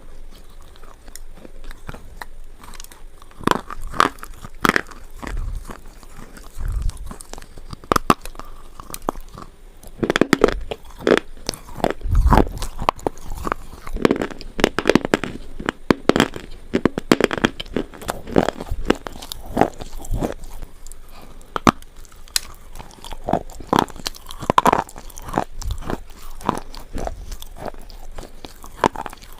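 Slate pencils being bitten and chewed: a run of sharp, irregular crunches and crackles, busiest about halfway through.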